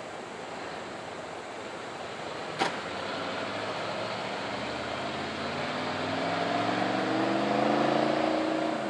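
A motor vehicle's engine accelerating: its pitch rises and it grows louder over the last few seconds, then cuts off abruptly. The engine runs over a steady rushing background noise, with one sharp click a few seconds before it.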